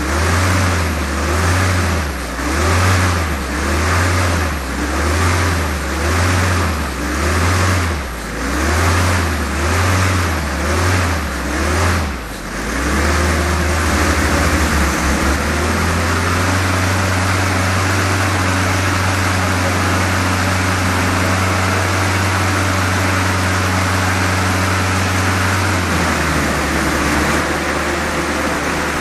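18-cylinder quarter-scale four-stroke model radial engine running, its speed surging up and down about once a second for the first twelve seconds or so, then settling into a steady run with a drop in pitch near the end.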